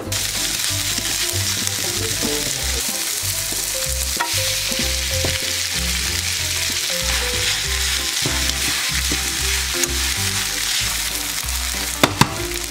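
Buchujeon (Korean chive pancake) batter sizzling steadily in hot oil in a nonstick frying pan, with a spatula working the pancake. Two sharp clicks near the end.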